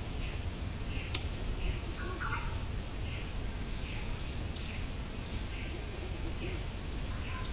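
Insects chirping outdoors: a steady high-pitched whine under regular short chirps, about three every two seconds, like crickets.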